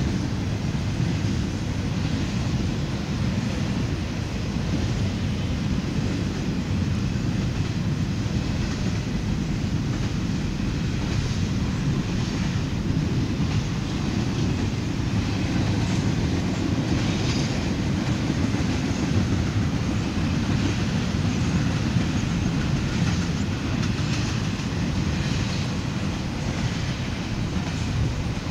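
CSX double-stack intermodal freight train rolling past: a steady low rumble of the cars, with wheel clatter on the rails that grows busier about a third of the way in.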